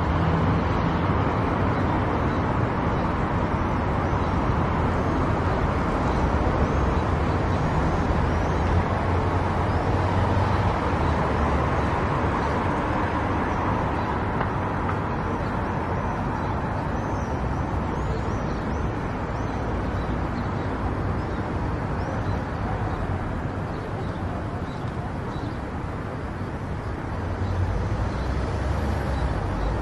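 A car driving on a road: steady tyre and road noise over a low engine hum, easing off a little and then picking up again near the end.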